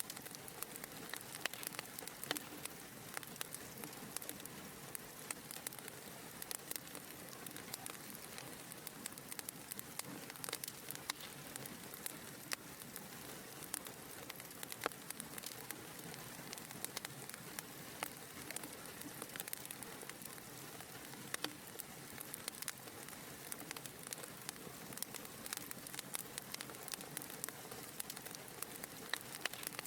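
Wood fire crackling in a fireplace: a steady soft hiss of flames with many small, irregular pops and snaps.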